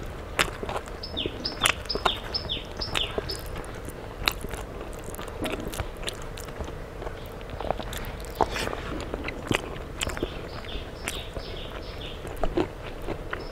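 Close-miked chewing and biting of a person eating a rice and fried-fish meal by hand, a string of sharp clicks and crunches. A bird in the background repeats a short falling chirp, about three a second, during the first few seconds and again from about nine seconds in.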